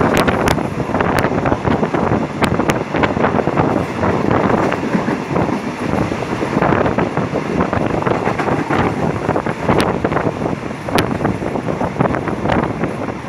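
Wind buffeting the microphone over the running noise of a moving passenger train, heard from an open carriage doorway, with scattered sharp clicks from the wheels on the rails.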